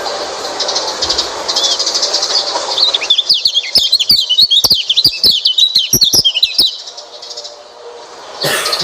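White-eye (pleci) song: a rapid, high twittering run of quick varied chirps starting about three seconds in and lasting some three and a half seconds, over a noisy background with scattered chirps. A short burst of noise near the end.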